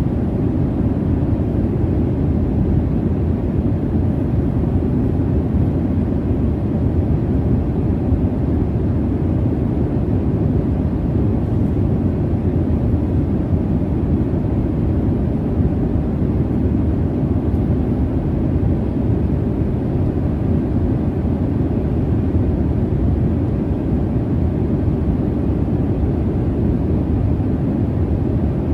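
Steady low rumble of jet airliner cabin noise in cruise: engine and airflow noise heard from inside the cabin, even and unchanging, strongest in the low range with a faint steady hum.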